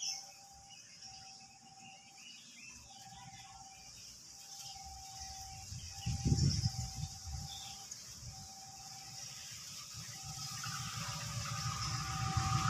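A diesel-hauled passenger train approaching from a distance, its low rumble growing steadily louder over the last few seconds. A faint tone repeats about once a second throughout.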